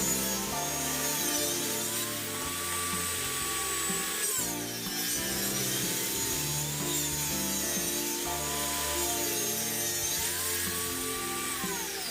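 Background music over a power tool cutting wood, its whine rising, holding and dropping several times.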